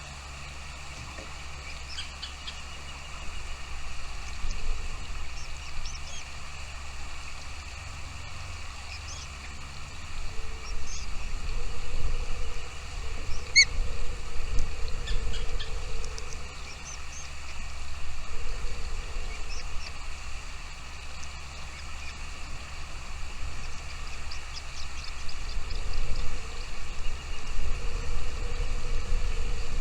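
Scattered short, high bird chirps over a steady low rumble that swells in places.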